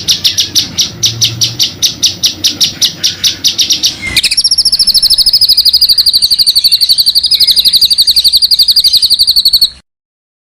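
Small songbird singing: a rapid run of high, sharp notes, about eight a second, then about four seconds in a switch to a long, very fast high trill (a 'roll') held for nearly six seconds, which cuts off suddenly near the end.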